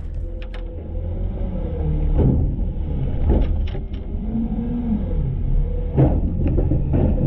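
Front-load garbage truck running, heard from inside its hopper: a steady low rumble with scattered knocks and rattles about every second or two.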